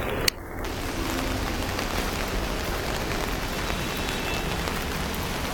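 Dense, continuous chatter of an enormous flock of birds, merging into a steady hiss. A single short click comes just after the start.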